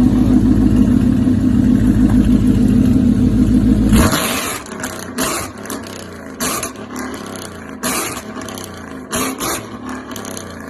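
Car engine revving: held high and loud for about four seconds, then the throttle is cut. The revs fall away with several short, sharp bursts, the loudest part being the first four seconds.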